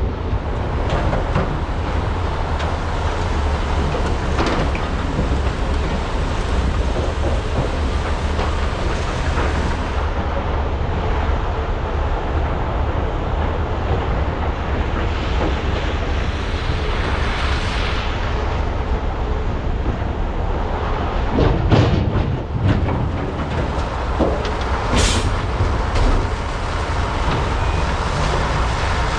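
Diesel engines and hydraulics of large mining excavators (a Komatsu PC395 and SANY SY485Hs) running under load while digging and truck loading: a steady low rumble, with a louder clatter about 22 seconds in.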